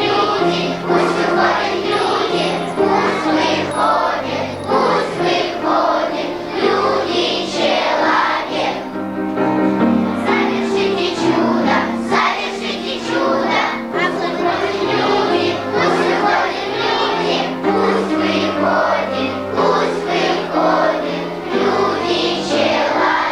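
A children's choir singing a song to musical accompaniment.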